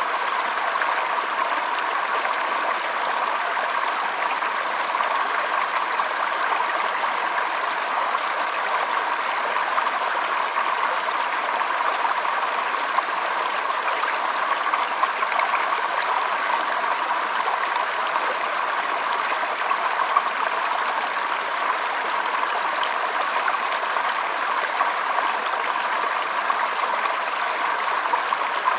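Shallow stream trickling and babbling over stones, a steady, even rush of water.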